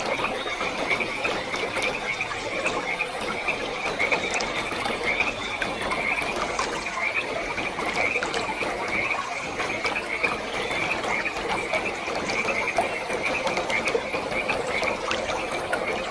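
A chorus of frogs calling in a continuous, rapidly pulsing trill over a steady rush of falling water.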